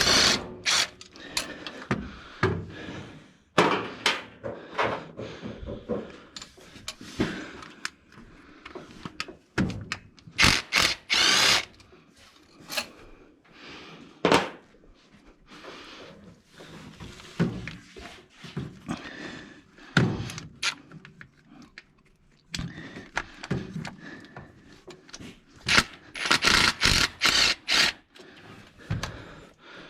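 Hand tools working on engine bolts: metal knocking and clinking in irregular thunks, with two short runs of rapid clicking, about ten seconds in and again near the end.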